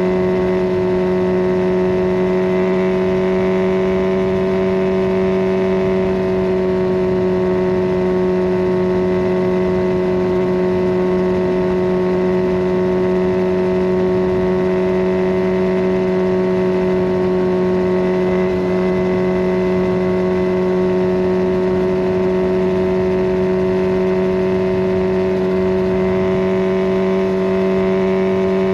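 Kawasaki Ninja 1000SX inline-four engine running through a Scorpion Red Power exhaust with the catalytic converter removed, holding steady revs, its pitch creeping up slightly near the end.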